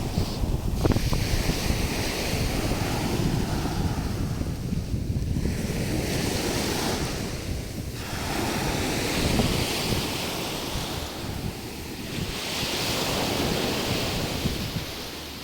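Sea waves washing onto a shore, the hiss of the surf swelling and fading every few seconds, with wind buffeting the microphone.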